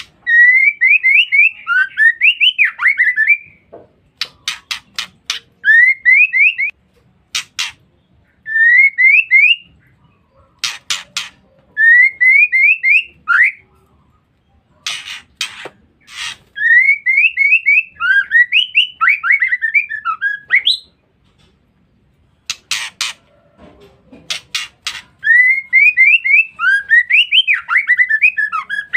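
Female white-rumped shama calling: repeated phrases of quick rising whistled notes, each lasting one to four seconds with short pauses between, and sharp clicking ticks in the gaps. This is the female's call used as a lure to stir male shamas.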